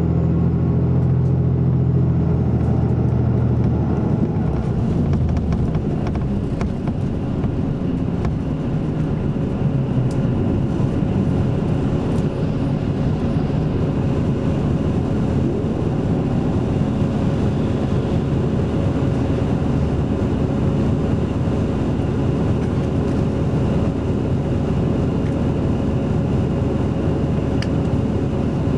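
Isuzu Erga Mio city bus with an Aisin automatic gearbox on the move: a loud, low diesel engine drone for the first few seconds gives way to a steady rumble of the bus running along, with a faint steady whine over it, heard from inside the cabin.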